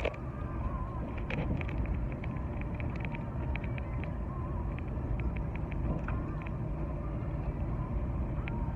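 Steady low rumble of road and engine noise inside a moving car, with many small, irregular ticks scattered over it.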